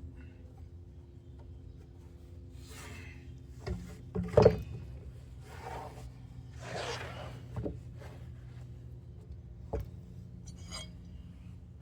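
Lumber being handled: boards slid and rubbed against each other or the bench in a few brief sweeps, with several wooden knocks, the loudest about four and a half seconds in. A steady low hum runs underneath.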